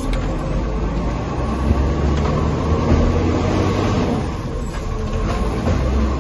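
Garbage truck diesel engine running with a steady low rumble and road noise, swelling slightly about two to three seconds in.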